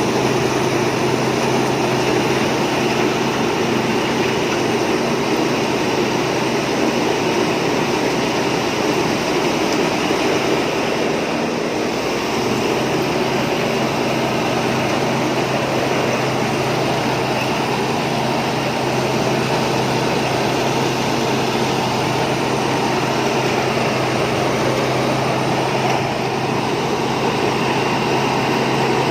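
Thai Seng Yont combine harvester running steadily, a continuous engine drone with no change in speed.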